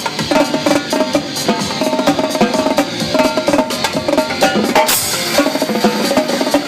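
Live drum-corps-style drumming on a Mapex drum kit over electronic dance music, with fast, dense stick strokes and a Paiste cymbal crash about five seconds in.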